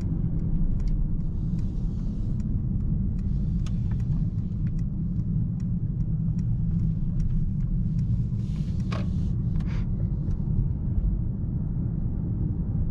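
Steady low rumble of the 2024 Mercedes-AMG S63 E Performance on the move, engine and road noise heard inside the cabin, with a few faint clicks and a brief hiss about nine seconds in.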